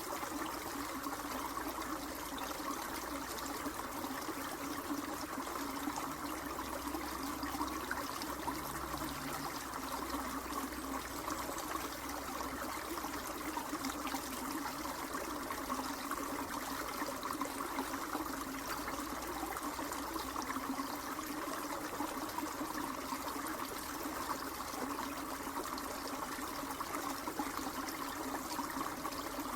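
Steady running water, a trickling stream, with no change throughout.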